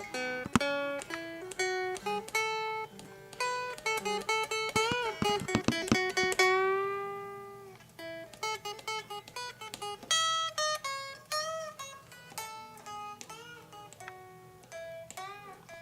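Solo blues guitar playing single-note licks, with plucked notes bent up and down in pitch and one note held and left to ring out about six seconds in.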